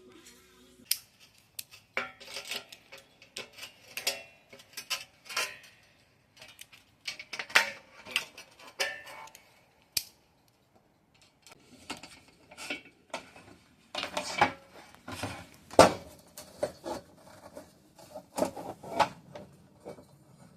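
Small metal parts and hand tools clicking, clinking and scraping in an irregular run of sharp knocks, the loudest a little before the end.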